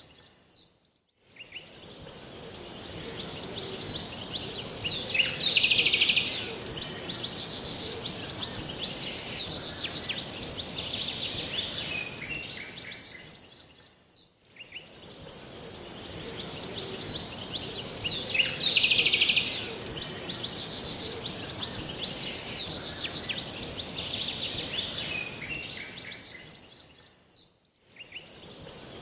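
Birds chirping and singing over a steady high-pitched hiss, with the loudest burst of calls about five seconds in and again near nineteen seconds. The audio fades out and back in about every 13 seconds, the same short stretch of birdsong repeating as a loop.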